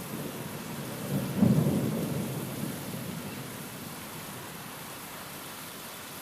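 Steady rain from a thunderstorm, with a roll of thunder that swells a little over a second in and rumbles away over the next couple of seconds.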